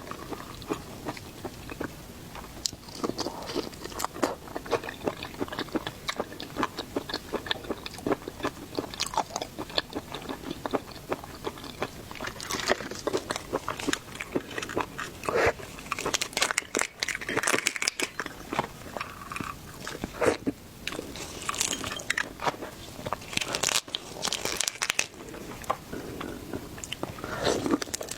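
A person eating seafood close to the microphone: wet chewing, biting and crunching in many quick, irregular clicks and smacks, with louder crunchy clusters in the middle and near the end.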